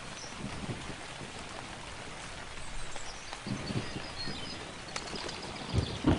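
Steady rain falling, with low rumbles of thunder swelling about halfway through and again more loudly near the end, and faint bird chirps over the rain in the second half.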